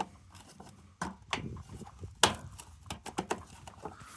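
Irregular knocks and clicks of hand tools and plastic panel parts being handled while a washing machine is taken apart.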